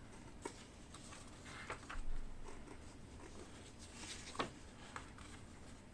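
Quiet handling of paper: soft rustles as a page of the kit's instruction booklet is turned, with a few light clicks and one sharp tap about four and a half seconds in.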